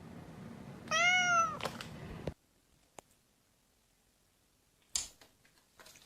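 A domestic cat meows once, a rising-then-falling call about a second in, followed by a couple of small clicks and a brief knock about five seconds in.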